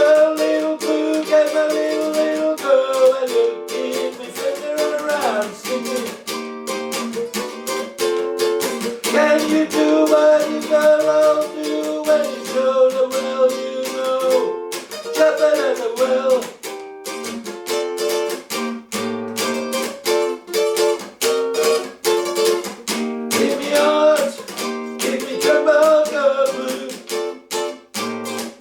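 Instrumental music on a plucked string instrument, a steady picked and strummed accompaniment carrying a melody, with almost no bass.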